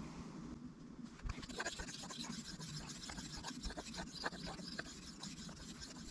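Steel knife blade rubbed in repeated soft, uneven strokes across a fine-grit Shapton Kuromaku 5000 whetstone, polishing the edge.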